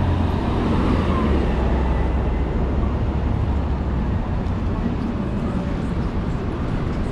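City street traffic: a low engine rumble from a vehicle close by, heaviest over the first four seconds and then easing off, over a steady wash of road noise.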